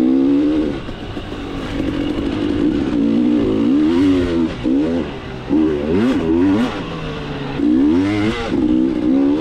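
KTM 300 two-stroke dirt bike engine being ridden hard, revving up and down over and over as the throttle is worked, with several quick rises and drops in a row in the middle.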